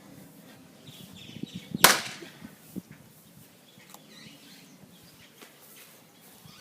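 Splitting maul striking a knotty elm log once, a single sharp crack about two seconds in, with a few faint knocks around it.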